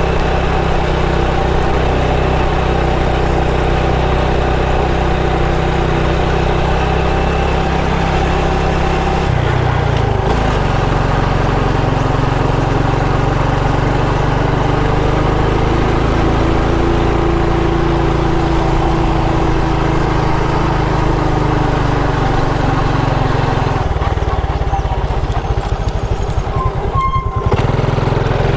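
Motorcycle engine running while riding, with a steady, loud note that changes pitch about ten seconds in as the engine speed drops.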